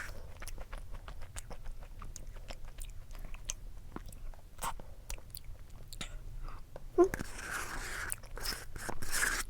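Close-miked eating sounds: a person biting and chewing dessert, with many small wet clicks from the mouth. About seven seconds in comes a louder knock, followed by a couple of seconds of noisier rustling or chewing.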